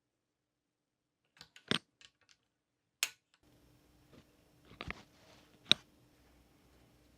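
A few sharp, separate clicks and taps of small plastic and metal parts of a diecast model car being handled, with a faint steady hum coming in about halfway.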